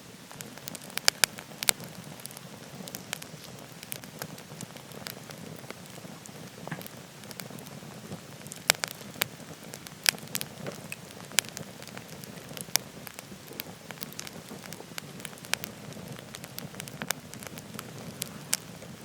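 Wood fire crackling in a wood-burning stove, with sharp pops scattered irregularly throughout, several of the loudest about a second in and again around nine to ten seconds in, over the steady rushing of a waterfall.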